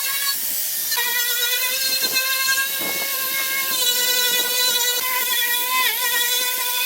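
An electric power tool running at a steady high whine, its pitch dipping briefly near six seconds as it bogs under load.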